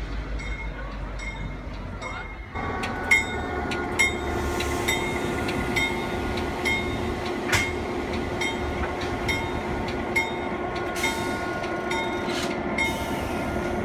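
Diesel locomotive and passenger coaches passing close by: a low engine rumble and wheels clicking over the rail joints at about two or three clicks a second. About two and a half seconds in, a steady high whine comes in and holds, and a few louder clicks stand out.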